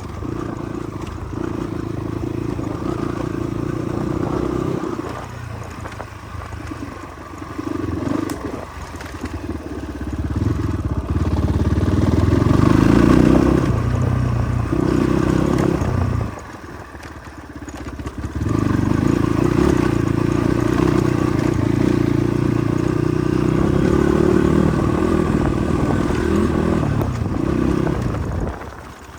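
Motorcycle engine running on a rough off-road track, louder and softer as the throttle opens and closes, and easing off briefly twice.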